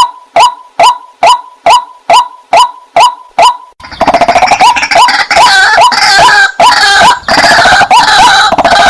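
Water hen (jal murgi) calling: short, evenly spaced notes, each falling slightly in pitch, about two a second. About four seconds in the sound switches abruptly to a busier, harsher run of overlapping calls.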